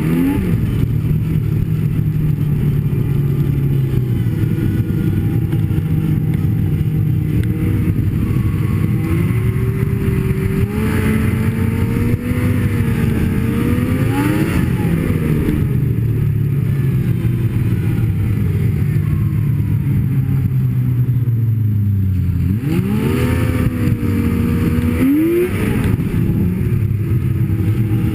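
Snowmobile engine running continuously under way, its pitch rising and falling with the throttle twice, about halfway through and again near the end.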